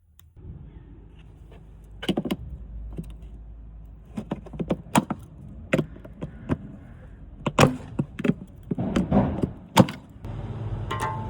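Clicks and knocks of a Scania truck's cabin air filter and its cover being handled, over a low hum. About ten seconds in, a steady running noise starts.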